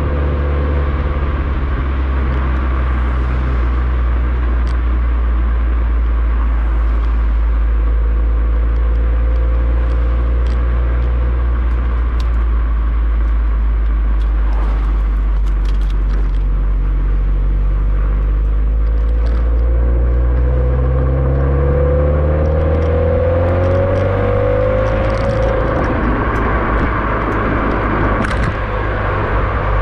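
Subaru WRX STI's turbocharged flat-four running through an HKS Super Turbo Muffler exhaust while the car is driven. The exhaust note holds a steady low drone, then rises in pitch from about two-thirds of the way in as the car accelerates, and settles again near the end.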